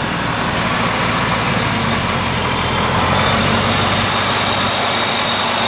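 Supercharged 5.4-litre V8 of a 2002 Ford Lightning pickup idling steadily. A thin high whine joins the engine sound about halfway through.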